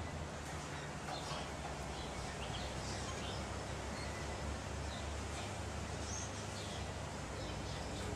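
Steady outdoor background noise with scattered short, high bird chirps.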